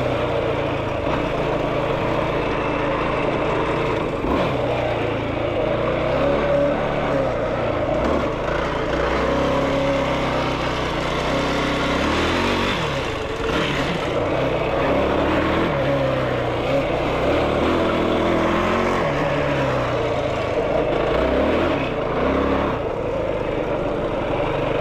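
Yamaha YFZ450R sport quad's single-cylinder four-stroke engine running as it is ridden, its pitch rising and falling again and again with the throttle.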